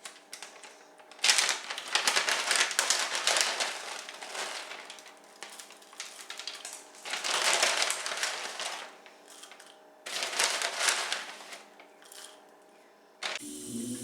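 Three bursts of rustling, crinkling and small clattering from food prep, each one to three seconds long, over a faint steady hum.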